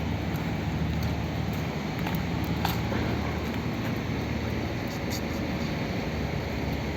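City road traffic: a steady wash of car engines and tyre noise with a low hum, and a couple of faint clicks.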